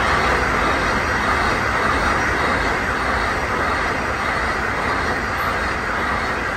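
Taiwan Railway EMU3000 electric multiple unit passing at speed: a loud, steady rush of wheels on rails and moving air.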